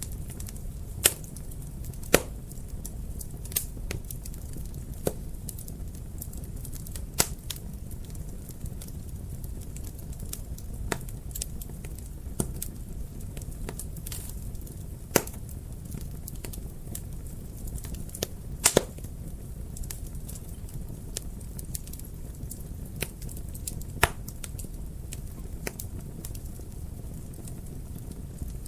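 Wood fire crackling in a fireplace: irregular sharp pops and snaps over a low steady rumble, with a few louder pops, two in quick succession about two-thirds of the way in.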